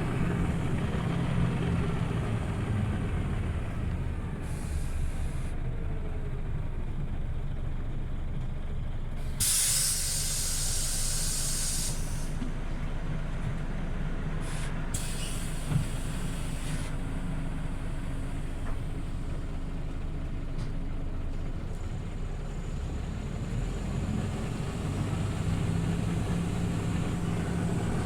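Scania OmniLink CL94UB city bus running with a steady low rumble. About ten seconds in comes a loud hiss of compressed air lasting over two seconds, then shorter hisses a few seconds later, from the bus's pneumatic system.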